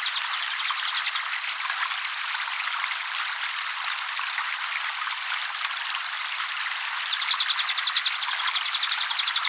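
Trickling water running steadily throughout, with a small bird's rapid, even trill of high chirps, about nine a second, over it; the trill stops about a second in and returns near the end.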